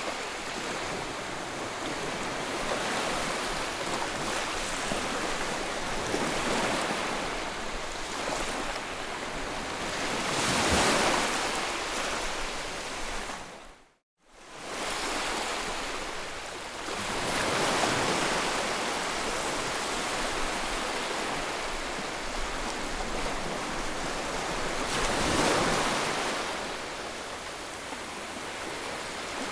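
Ocean waves washing ashore, a steady surf hiss that swells into louder breaking waves about every seven seconds. About halfway through the sound drops out to silence for a moment and fades back in.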